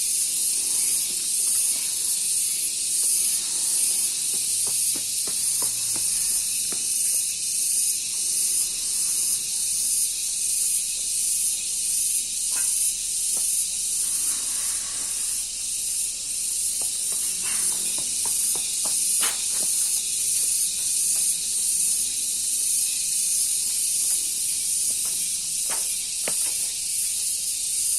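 Crickets singing: a loud, continuous, very high-pitched shrill trill that pulses about twice a second, with a few faint clicks beneath it.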